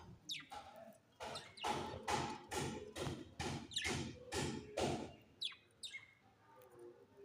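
Budgerigar giving a quick run of harsh, scratchy calls, two or three a second, then two short falling chirps about five and a half seconds in and softer chatter as it quietens.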